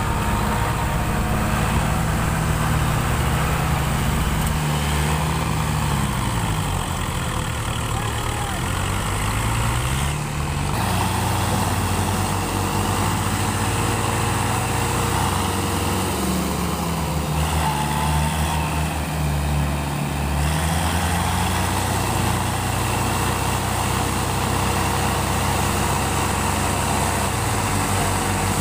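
Diesel tractor engines running, their engine speed rising and falling several times.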